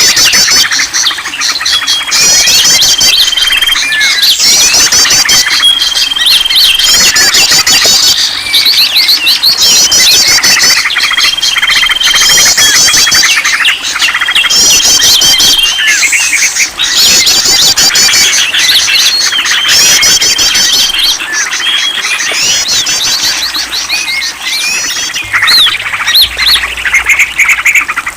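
Many songbirds singing and calling at once in a dense, loud chorus: fast trilling phrases repeat every second or two, with a long high whistle coming back several times.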